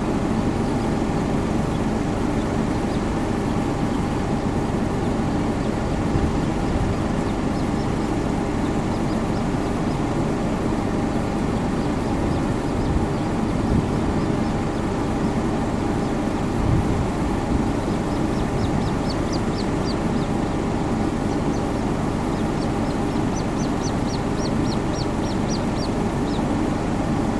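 Little grebes calling: runs of high, evenly spaced peeping notes, faint at first and clearer in two runs in the second half, over a steady low rumble of background noise.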